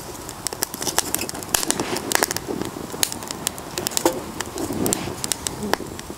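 Wood fire crackling, with many sharp pops and snaps at irregular intervals.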